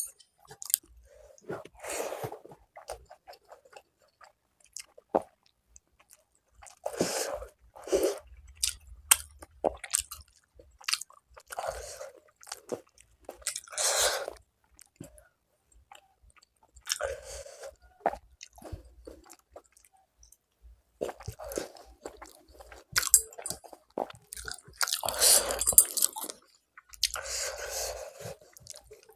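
Close-miked chewing of rice and fish curry, with wet mouth sounds and some crunchy bites, coming in irregular spells with short pauses between them.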